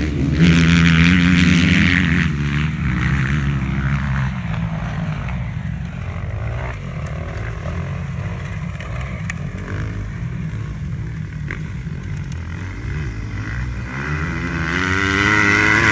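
Motocross dirt bike engines revving on the track: one bike is loud and close at the start and fades away over the first few seconds, distant engines run on through the middle, and another bike comes up loud, revving, near the end.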